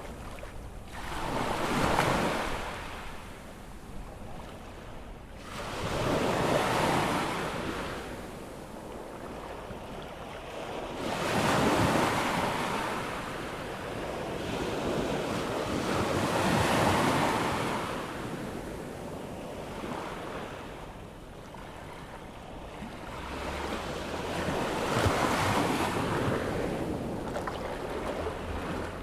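Ocean waves breaking and washing up the beach on an incoming tide, with a swell of surf about every five seconds. Wind rumbles on the microphone.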